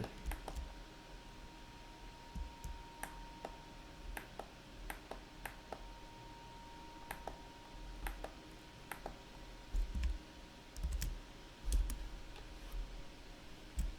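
Scattered sharp clicks of a computer mouse and keyboard at irregular intervals, with a few dull low thumps near the end.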